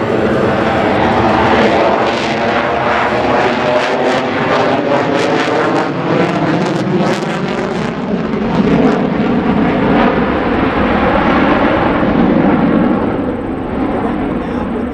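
F-22 Raptor's twin Pratt & Whitney F119 jet engines running loud during a demonstration pass, with a crackle through the middle seconds and a tone that shifts slowly as the jet moves.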